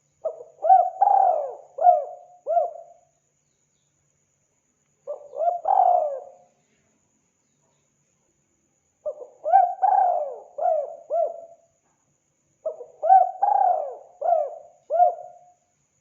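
Spotted dove (tekukur) cooing in four phrases of several notes each, with pauses of one to three seconds between them; the second phrase, about five seconds in, is shorter. This is a recorded call of the kind played to lure wild doves.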